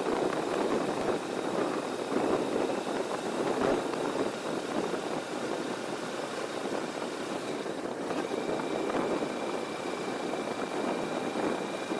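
Heavy wind noise buffeting the microphone of a 360 camera on a 2024 Kawasaki Vulcan S motorcycle at riding speed, a rough, fluctuating rush that largely covers the bike's engine.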